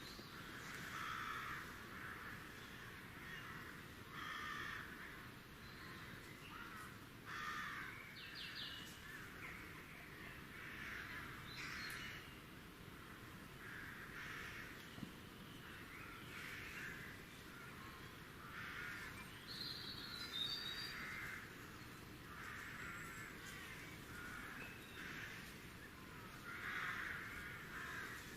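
Crows cawing over and over, harsh calls repeating every second or two, with a few brief higher bird chirps mixed in.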